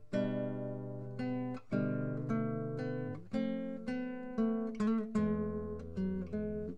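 Background music: an acoustic guitar strumming chords, each strum ringing out before the next.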